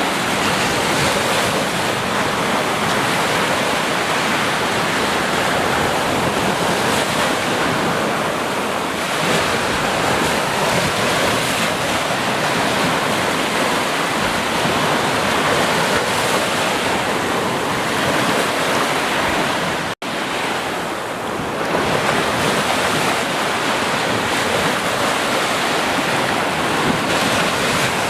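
Steady rushing water, an even noise with no distinct events, broken by a split-second dropout about two-thirds of the way through.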